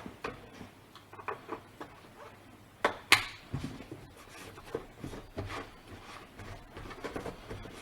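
Handling clicks, knocks and short rubs of a fuel can and the chainsaw's fuel cap while its tank is topped up. The loudest is a sharp knock about three seconds in.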